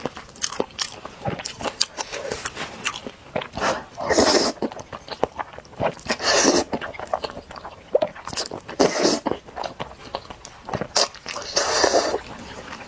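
Close-miked eating of spicy noodles: four loud slurps spaced a few seconds apart, with wet chewing and mouth clicks between them.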